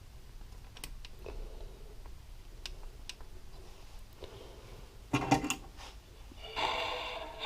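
Small metal parts and hand tools clicking on a workbench during engine assembly: a few light clicks, then a louder clatter about five seconds in. Near the end a brief pitched tone lasting under a second.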